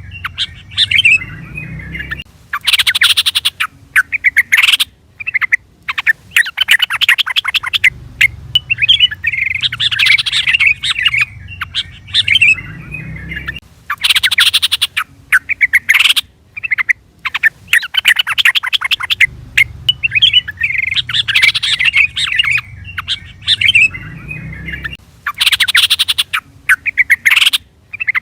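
Yellow-vented bulbul (trucukan) calling: bubbly chattering phrases broken by bursts of rapid, harsh chatter. The same sequence repeats about every 11 to 12 seconds, as a looped lure call.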